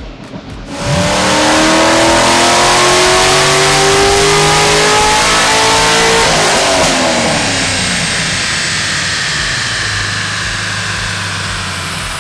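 2013 Corvette 427's V8, fitted with aftermarket heads and headers, making a wide-open-throttle pull on a chassis dyno: it climbs steadily through the revs for about five seconds, then the throttle closes and it winds down as the rollers coast to a stop.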